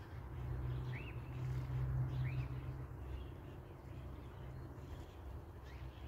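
Outdoor ambience: a steady low rumble with two short chirps from a small bird about one and two seconds in.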